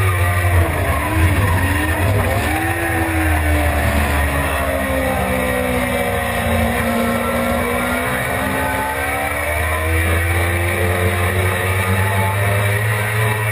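Suzuki GSX-R600 inline-four engine at racing speed. The revs dip and jump several times in quick succession over the first few seconds, then fall slowly and climb steadily again as the bike drives out of a corner.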